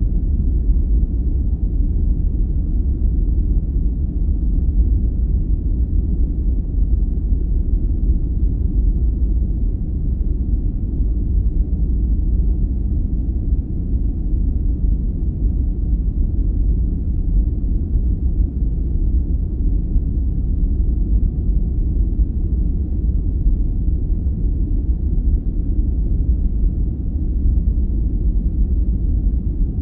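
Steady, deep noise for sleep, weighted toward the bass with almost no hiss at the top, running evenly without change.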